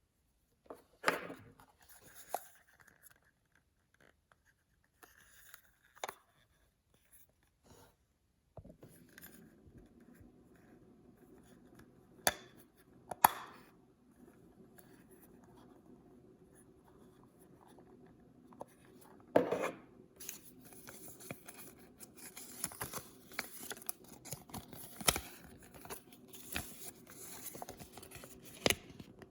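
Paper and packaging being handled and opened: scattered crinkles, taps and a few sharp snaps, turning to dense continuous rustling and tearing over the last third.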